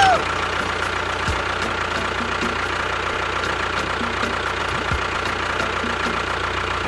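An engine idling steadily, with an even low hum and a faint constant high whine.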